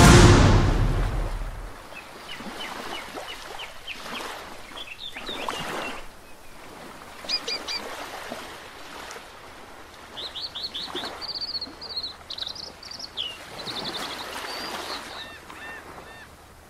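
Music fading out over the first two seconds, then several birds chirping and trilling in short repeated phrases over a background hiss that swells a few times.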